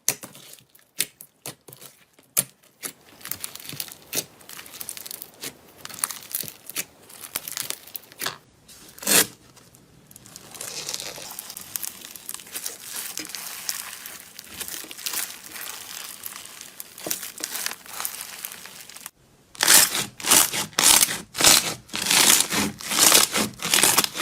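Crunchy material being crushed, giving irregular crackling and crinkling crunches. A dense crackle runs through the middle, and a run of louder, sharper crunches comes near the end.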